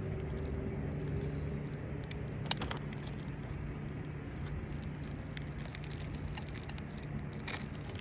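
A steady low motor hum that eases off slightly after the first second, with a couple of sharp clicks, one about two and a half seconds in and one near the end.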